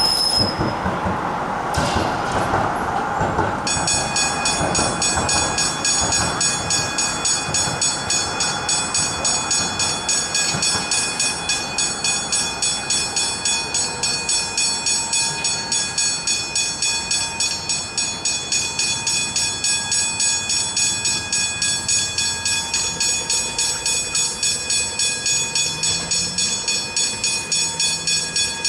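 Railway level crossing warning bell starting to ring a few seconds in, after a wash of road noise, then ringing on with fast, evenly repeated strokes.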